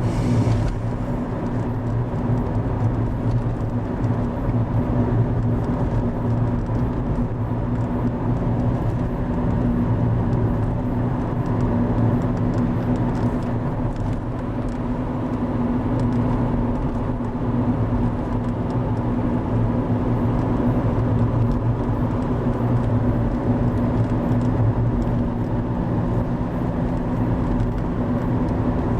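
Driva river in heavy flood: the floodwater rushing with a loud, steady, low roar that does not let up.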